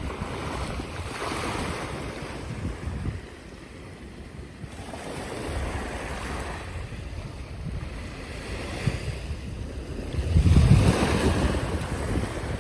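Wind buffeting the microphone over the wash of sea waves, swelling and easing, with a louder surge about ten seconds in.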